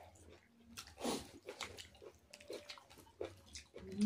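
Two people eating by hand: chewing and biting sounds, a string of short, scattered mouth noises.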